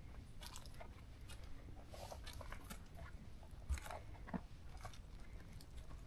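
Footsteps crunching on a forest trail, an irregular run of short crackling steps, with one dull thump a little past halfway.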